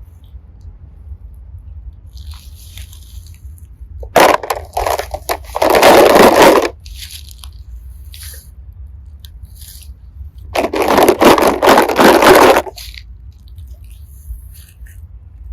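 Hands digging through a heap of tiny plastic hearts and seashells, giving two loud bursts of crunching and scraping, each about two seconds long.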